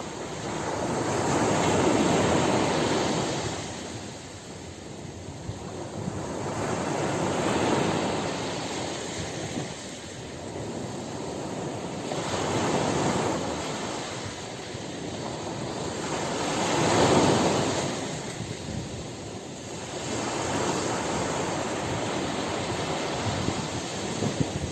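Ocean surf: waves breaking and washing up the shore, swelling and fading about every five seconds.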